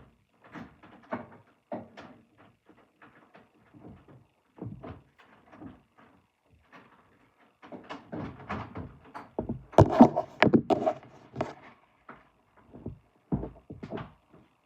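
Irregular knocks, thuds and clatters of indoor handling, with the loudest cluster of bangs about ten seconds in.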